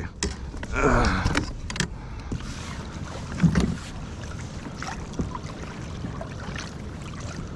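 Water sloshing and splashing around a fishing kayak, with scattered small knocks, loudest about a second in.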